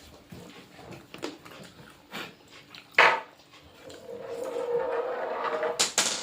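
Knocks and clatter of dishes and utensils during a meal, with one loud sharp knock about three seconds in. It is followed by a steady drawn-out tone lasting about two seconds.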